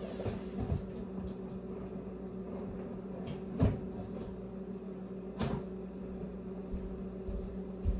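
Kitchen cupboard being opened and plastic food containers knocked about while one is picked out, with two sharper knocks, the louder about three and a half seconds in and another about five and a half seconds in. A steady low appliance hum runs underneath.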